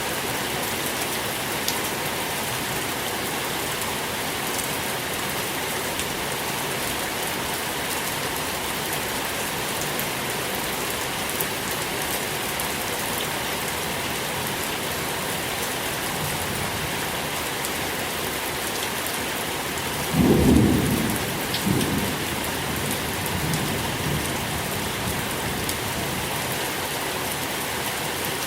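Steady rain falling, with a roll of thunder about two-thirds of the way through: a sudden low rumble, the loudest sound here, that dies away over a few seconds.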